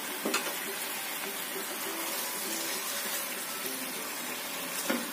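Chicken in a thick sweet-soy spice sauce sizzling and bubbling steadily in a nonstick grill pan on low heat. There is a sharp knock of the spatula against the pan near the start and another near the end as the chicken is turned.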